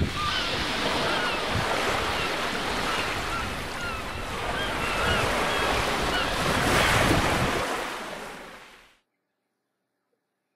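Ocean waves washing on a shore with wind, short high chirps above the surf. It fades out about eight seconds in, then silence.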